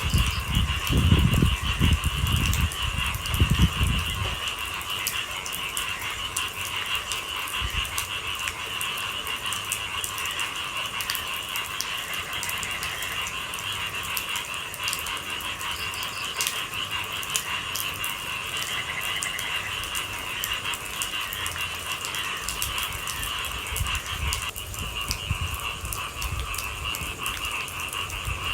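A steady, dense chorus of night animals, in the frog and insect range, with raindrops tapping sharply and irregularly on a hard surface. Low rumbling thumps sound during the first few seconds.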